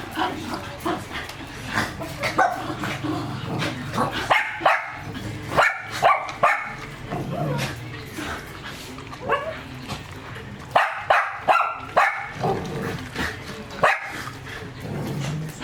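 German shepherd barking and yipping in short, irregularly spaced bursts.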